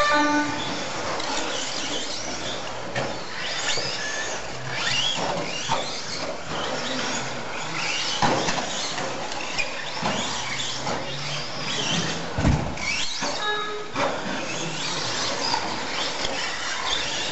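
Several RC stadium trucks racing on a dirt track, their motors whining up and down in pitch as they speed and brake, with a few sharp knocks from landings or hits, the heaviest about twelve seconds in.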